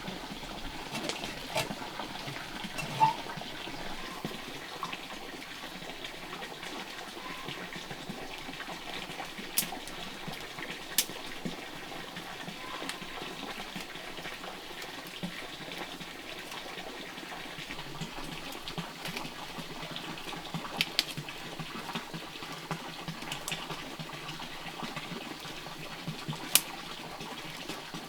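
Steady rush of running water, with a few sharp clicks here and there.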